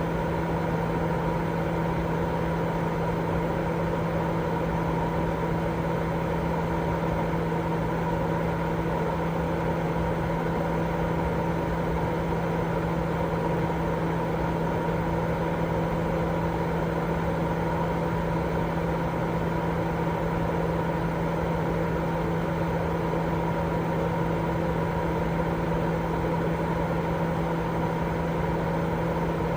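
Continuous baby sleep-aid white noise: a steady, unchanging rushing sound with a constant low hum running through it.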